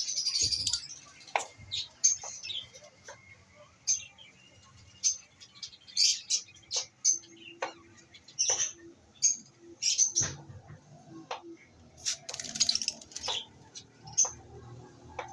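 Albino lovebirds giving short, sharp, high chirps at irregular intervals, with a couple of longer harsh screeching bursts, one at the start and one about twelve seconds in.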